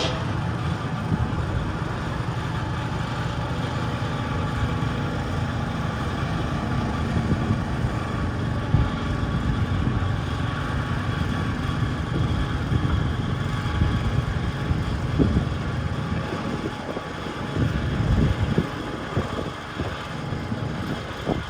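Garden tractor engine running steadily, with a short surge in loudness near the end.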